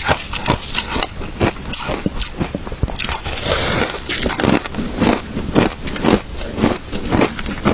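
Close-up crunching and chewing of shaved jewelry ice: a quick, irregular run of sharp crunches, several a second, with a denser crackling patch about three to four seconds in.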